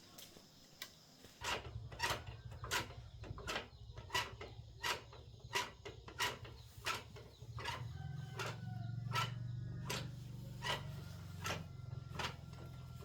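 A small motor hums steadily while something clicks or knocks at an even pace, about one every 0.7 s. The hum starts about a second and a half in and grows louder about eight seconds in.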